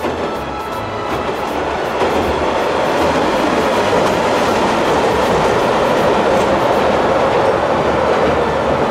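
A diesel railcar running across a steel girder railway bridge: loud noise of wheels and the steel deck that builds about two seconds in, holds steady, and eases near the end.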